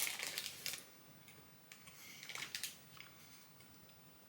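Plastic snack packaging rustling and crinkling in short bursts as it is handled and opened: one group in the first second, another about two and a half seconds in.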